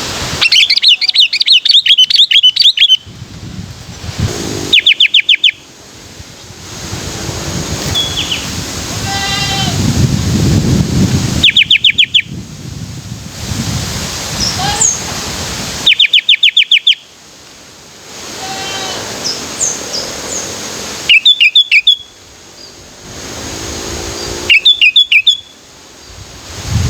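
Sooty-headed bulbul (kutilang) singing: loud bursts of fast repeated notes every few seconds, with quieter scattered chirps and a low background rumble between them.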